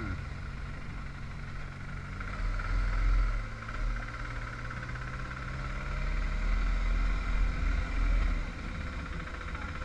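A vehicle travelling on the road: steady engine and road rumble, swelling a little louder around three seconds in and again for a couple of seconds later on.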